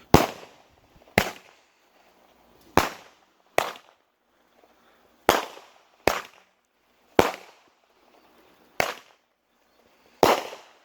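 A lit multi-shot consumer firework (Camaro Fever) going off in a series of about nine sharp bangs, roughly one a second at uneven spacing, each trailing off briefly.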